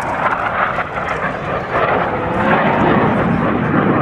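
Jet roar of the Blue Angels' F/A-18 Hornet formation flying past, their General Electric F404 turbofans giving a loud, rushing noise that swells about two seconds in.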